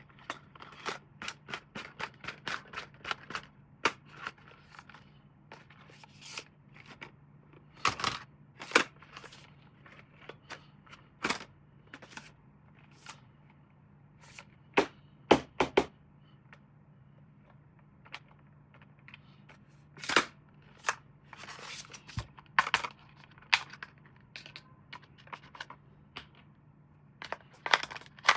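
Plastic toy packaging and parts being handled and opened: irregular sharp clicks, snaps and crinkles, some loud, over a faint steady low hum.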